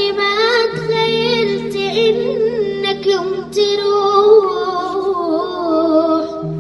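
A young girl's voice singing a slow Arabic melody in long, wavering held notes, with no clear words, over sustained low accompaniment notes that change pitch twice.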